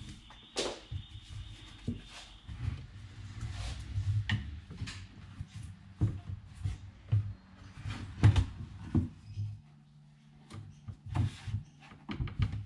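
Irregular wooden knocks, clicks and rubbing as the parts of an old wooden chair are handled and fitted during a joint repair, over a faint steady low hum.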